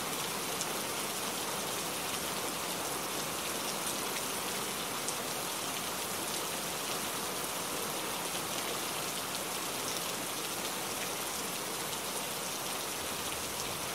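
Rain falling steadily: an even hiss with faint scattered drop ticks.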